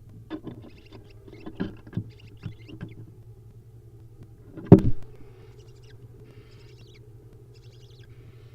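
Barn owl nestlings shifting about in the nest box: a run of knocks and scuffles, one heavy thump about halfway through, then a series of short, raspy hisses, over a steady low hum.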